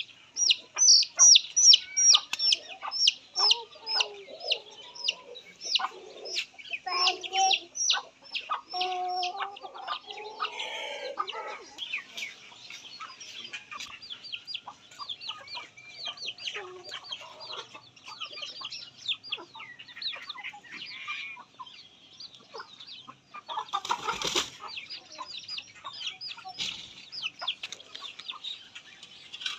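Chicks peeping continuously in quick, high, falling notes, loudest in the first few seconds and then fainter. A short thump comes about 24 seconds in.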